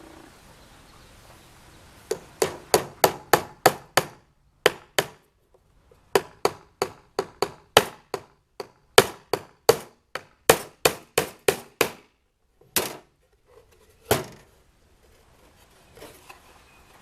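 Hammer driving nails into wood: sharp strikes at about three a second, in several runs with short pauses, ending in a few single blows.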